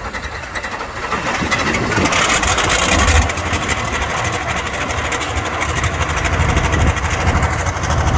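A pulling vehicle's engine running loudly in rapid firing pulses, swelling in level about one to two seconds in and then holding strong.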